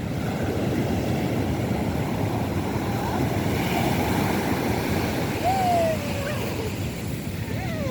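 Rough sea surf breaking and washing on a beach, a steady dense rush of waves. A few short calls sliding down in pitch stand out over it, the clearest about five and a half seconds in.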